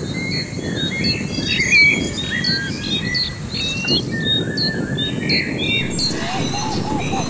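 Birds chirping, many short overlapping calls and whistles, over a steady low rumble. A lower run of four or five quick notes comes near the end.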